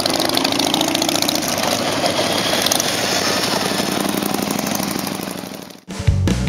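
Motorcycle engines running steadily with a fast pulsing beat, fading out near the end. Rock music then starts abruptly.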